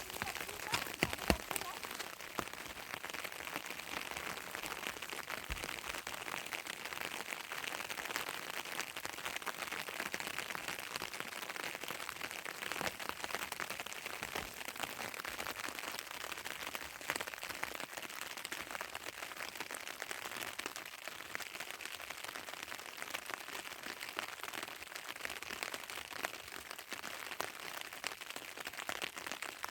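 Heavy rain falling steadily, a dense patter of drops striking a surface, with a few sharper drop hits in the first second or two.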